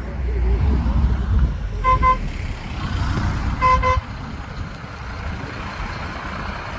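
Truck horn giving two quick double toots, about two seconds in and again near four seconds, over a diesel engine rumble from an arriving lorry.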